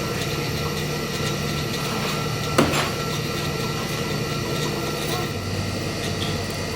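A workshop machine running with a steady hum, its low tone dropping a little past five seconds in, and one sharp knock about two and a half seconds in.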